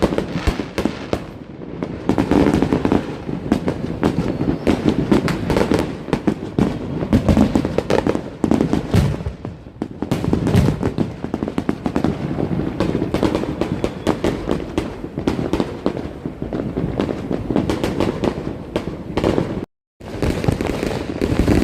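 Fireworks and firecrackers going off without letup: a dense, rapid run of pops, crackles and bangs. It cuts to dead silence for a moment about two seconds before the end.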